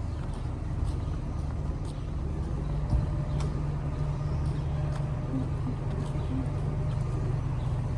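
Steady low rumble of city street traffic, with a few faint clicks through it.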